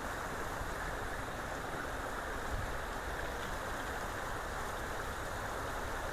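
Creek water flowing steadily, an even, continuous rush.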